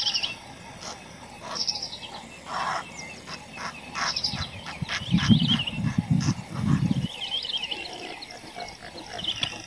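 Small birds chirping repeatedly in open grassland. A low pulsing rumble, the loudest sound, comes in about five seconds in and lasts about two seconds.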